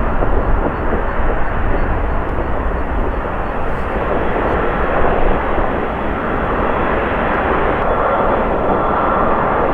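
Jet aircraft engines on the runway, a loud, steady roar, with a faint whine joining in the second half.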